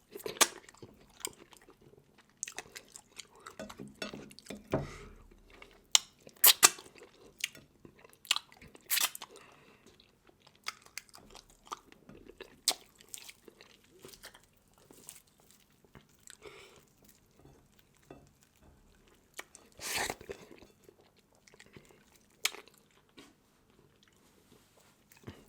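Close-up chewing and crunching on seafood, with irregular sharp cracks and crunches, the loudest about six and nine seconds in, and a longer crunch about twenty seconds in.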